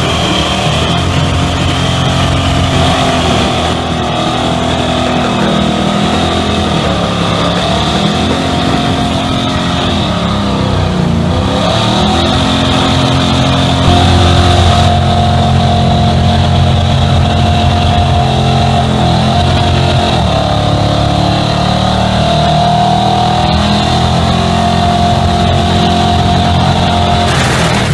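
Car engine held at high revs for a long stretch, its pitch dipping and climbing back a couple of times.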